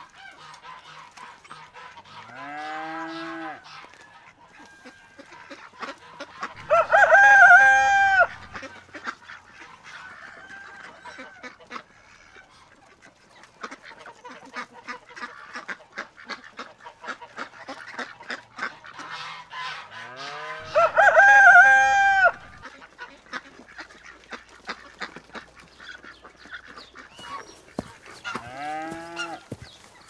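Rooster crowing four times, each crow about two seconds long, with the two loudest about seven and twenty-one seconds in. Many quick short sounds come between the crows.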